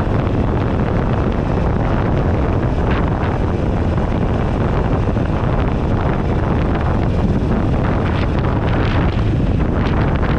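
Loud, steady wind rush buffeting a handlebar-mounted GoPro's microphone at riding speed, with a Buell Ulysses XB12XT motorcycle's engine running underneath.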